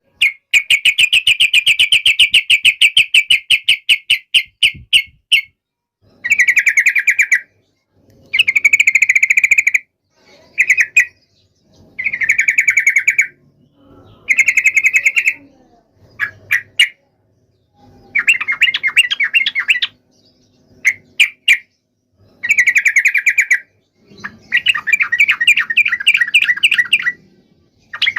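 Yellow-vented bulbul (trucukan) giving loud, rapid chattering calls in repeated bouts. The first bout runs about five seconds, and the rest last a second or two with short pauses between. This is the agitated 'fighting' song used to provoke other bulbuls into answering.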